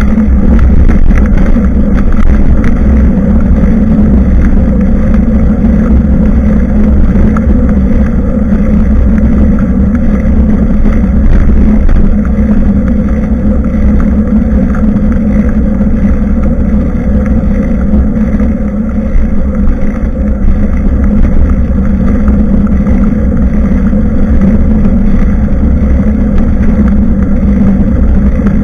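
Steady, loud low rumble of wind and road vibration on the built-in microphone of a bicycle-mounted Nikkei Extreme X6 action camera while riding, with a constant drone underneath.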